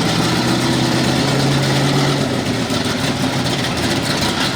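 Small-block V8 engine of a super stock 4x4 pulling truck running loud and steady, its even tone breaking up into a rougher sound about two and a half seconds in.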